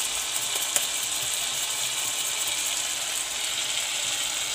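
Spiced onion-tomato masala, loosened with a little water, sizzling steadily in a wok with a fine crackle, and one sharp tick a little under a second in.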